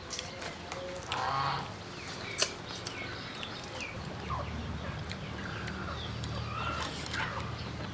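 Birds or poultry calling with short chirps, mixed with scattered sharp clicks. A low steady hum sets in about halfway through.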